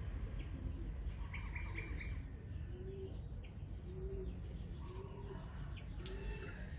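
Wild birds calling: a short run of quick high chirps, then a low cooing call repeated about once a second, four times.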